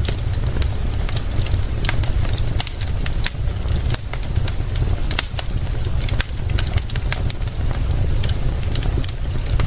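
Wood fire crackling, with sharp pops several times a second, over a steady hiss of rain and a constant low rumble.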